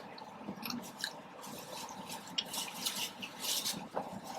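Chewing and wet mouth sounds from eating soft tacos close to the microphone: scattered short smacks and clicks.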